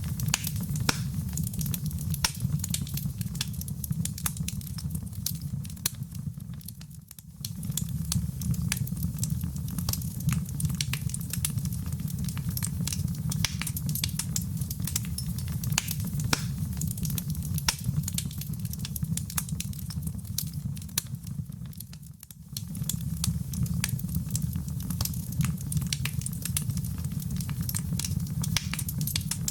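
Wood fire in a fireplace crackling, with a steady low rumble of flames under frequent sharp pops and snaps. The sound dips briefly twice, about seven seconds in and again about twenty-two seconds in, as the looped recording joins.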